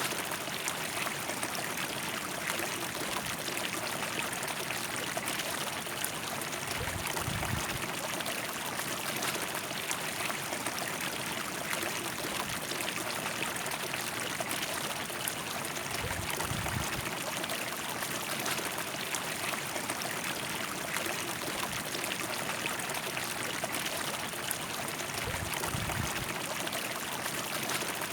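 River water flowing: a steady, full rush of running water, with three brief low rumbles about nine seconds apart.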